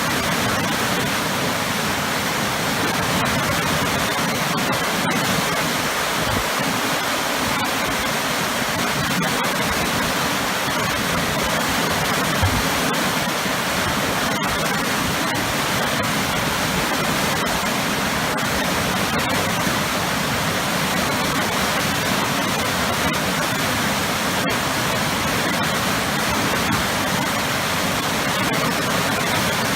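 Powerful waterfall crashing into a churning pool: a steady, loud, unbroken rush of water.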